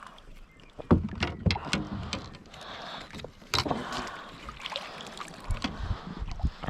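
Irregular knocks and clicks of gear and handling against a kayak's hull, a few sharp ones standing out above a low background haze.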